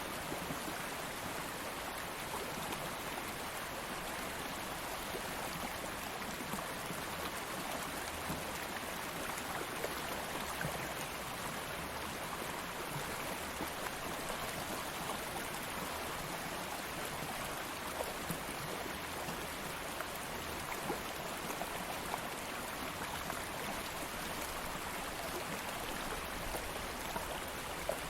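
Stream water flowing steadily over stones: a continuous rush with small splashes and gurgles scattered through it.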